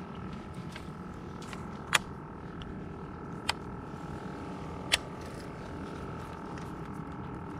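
A small electric motor on a bass boat running with a steady hum and whine, with three sharp clicks about a second and a half apart.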